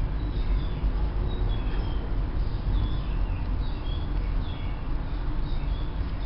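Small birds chirping in many short calls over a steady low rumble.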